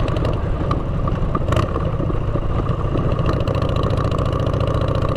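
Motorcycle engine running steadily through aftermarket exhaust pipes during a ride, with a brief rush of noise about one and a half seconds in.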